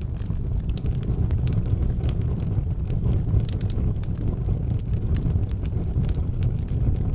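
Fire burning in an outdoor fireplace: a steady low rumble of the flames with scattered sharp crackles and pops.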